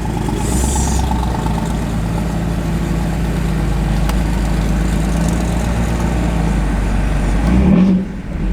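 LS V8 of a twin-turbo Mercedes E63 AMG swap running with a steady, bonkers loud exhaust rumble, the exhaust exiting at the front of the car. Near the end it swells briefly, then drops back sharply.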